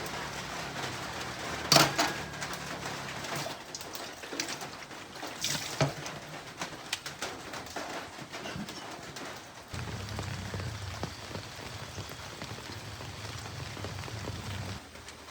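Rain falling steadily, with a few sharp knocks in the first six seconds. From about ten seconds in, low pigeon cooing joins it.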